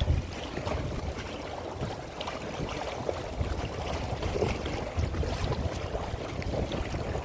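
Gusty wind rumbling on the microphone, with waves splashing and slapping against a small fishing boat in rough water.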